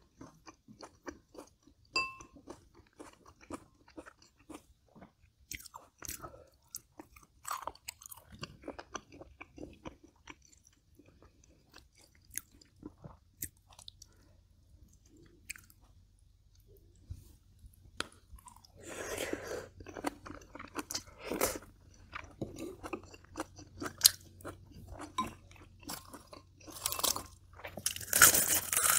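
Close-miked chewing and crunching of braised kimchi and pork with rice, made up of many small, irregular crunches and clicks. It goes quieter for a few seconds in the middle, then comes back in louder, denser stretches of crunching about two-thirds in and again near the end.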